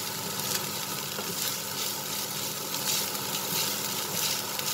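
Minced pork sizzling in a hot nonstick frying pan as two wooden spatulas stir and scrape it in repeated strokes. The mince is at the dry-frying stage: its fat rendered out, the meat now dry and loose in the pan.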